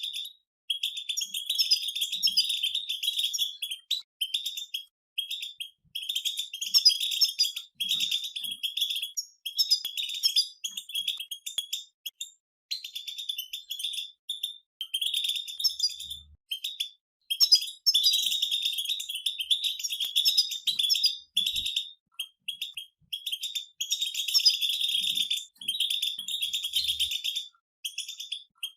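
Several European goldfinches singing together: fast, tinkling twittered phrases in bursts of a few seconds, broken by short pauses.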